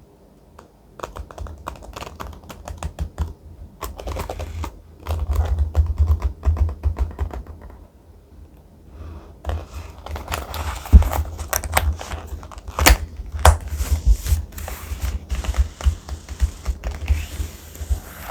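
Thick paper being handled close to the microphone: crisp rustling, crinkling and quick tapping clicks, pausing briefly about eight seconds in and growing denser after.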